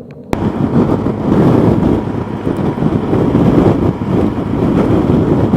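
Wind buffeting the microphone on a moving Yamaha FJR1300 motorcycle, a loud gusty rumble over the bike's engine and road noise. It starts abruptly just after the beginning.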